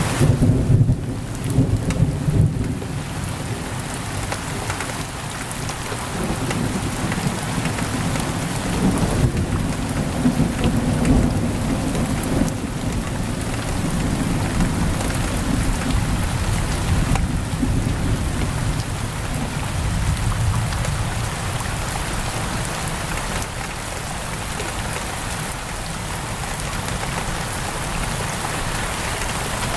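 Heavy rain pouring steadily on a window, with deep rolls of thunder rumbling beneath it, strongest in the first few seconds and again about ten seconds in.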